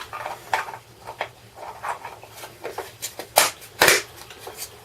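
Irregular light clicks and knocks of plastic parts being handled, as the sander's dust collection box is fitted and handled, with two louder knocks near the end.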